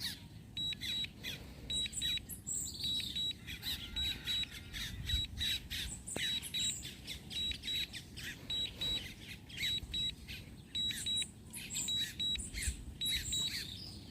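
Birds chirping outdoors, with a run of short, evenly repeated high beeps, typical of the DJI RC-N1 controller's critically-low-battery warning.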